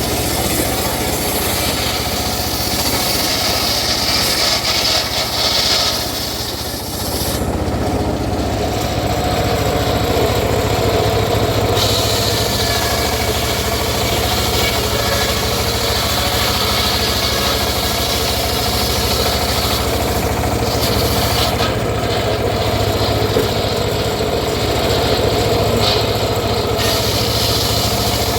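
Engine-driven saw cutting through teak wood: a steady engine drone under the continuous rasp of the blade in the wood, easing briefly about six seconds in.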